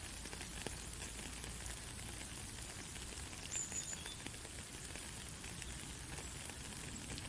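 Steady rain falling on a country road, a dense patter of many small drops. A brief high chirp sounds about three and a half seconds in.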